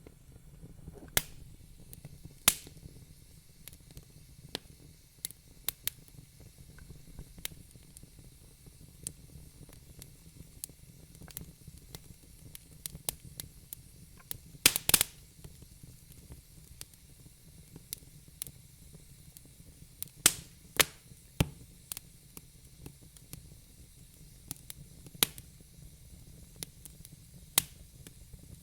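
Wood fire burning in a fireplace: a soft steady hiss and low rumble of the flames with irregular crackles and pops from the burning logs, a few of them sharp and loud.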